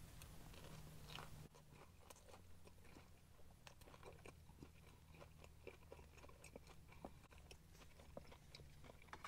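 Faint chewing of a crumbed chicken nugget: soft, irregular crunches and mouth clicks.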